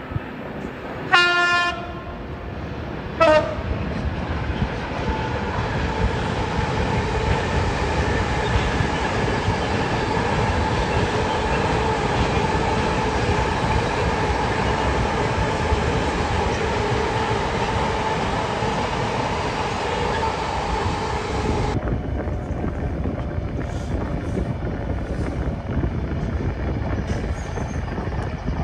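Diesel freight locomotive sounding its two-tone horn, a high note then a shorter, lower one, followed by the steady rumble of the train and its container wagons running past.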